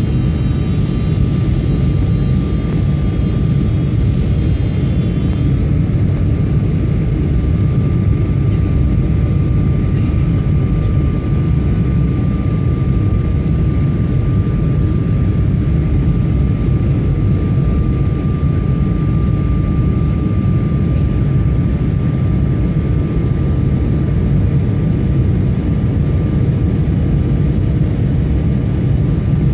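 Steady, loud low rumble of an airliner's engines and airflow heard from inside the cabin on a landing approach, with a faint steady whine. A high, faint rattling hiss stops about six seconds in.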